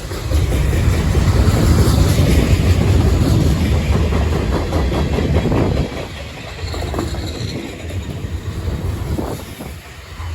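Freight train rolling past, a heavy low rumble with the wheels clacking repeatedly over the rails. It drops noticeably in level about six seconds in.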